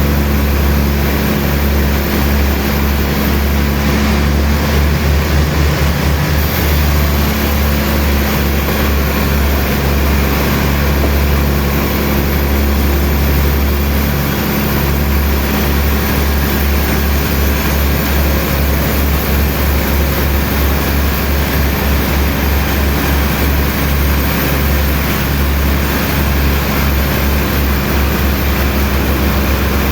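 Heavy sawmill machinery running steadily: a loud, low engine-like hum with a fast pulsing throb over a constant wash of mechanical noise.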